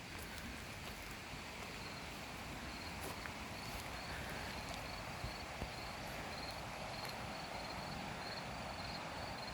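Crickets chirping in a high, evenly repeating pulse over a steady rush of a small river's flowing water.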